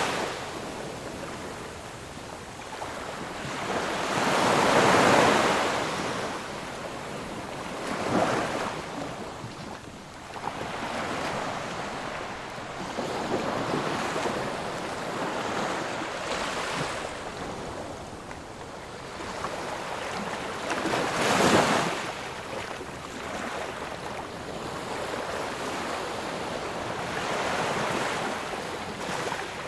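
Ocean surf: waves breaking and washing in, swelling up every few seconds over a steady hiss, with the biggest surge about three-quarters of the way through.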